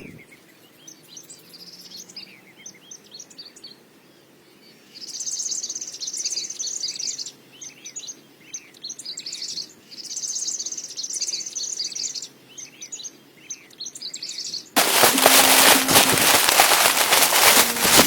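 Songbirds chirping, with two longer high trills. Near the end, a sudden loud, dense rattle of rapid clicks cuts in.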